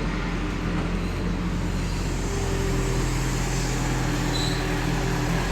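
Heavy diesel engine of earth-moving equipment running steadily.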